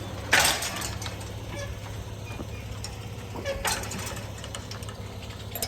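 A manual gate clatters shut about a third of a second in, with a smaller clatter around three and a half seconds, over a steady low hum.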